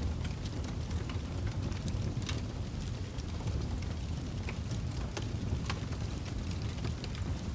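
Wood fire crackling in a fireplace: irregular sharp pops and snaps over a steady low rumble from the flames.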